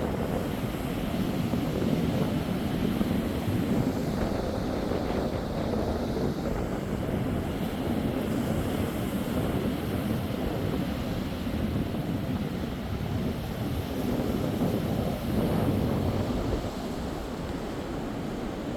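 Strong wind buffeting the microphone over waves breaking on the beach: a steady, low, rushing noise with no distinct events.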